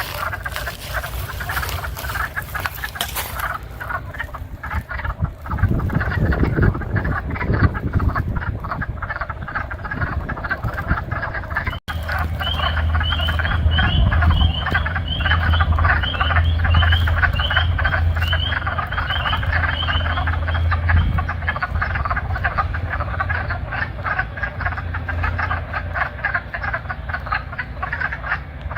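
A chorus of wood frogs giving rapid, duck-like clucking calls, mixed with the high-pitched peeping of spring peepers; a run of about a dozen clear peeps stands out in the middle. A low rumble runs under that middle stretch.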